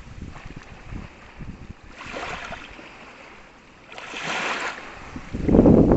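Small waves washing onto a sandy beach, each surge of rushing surf swelling and fading every couple of seconds, with a louder low rush near the end.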